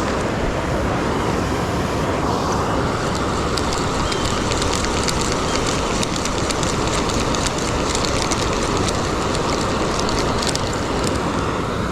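Steady rush of a waterfall, a constant roar of falling water.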